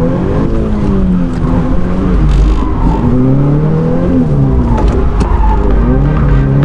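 Drift car engine revving up and down repeatedly under on-off throttle during a drift demonstration, the pitch rising and falling every second or so.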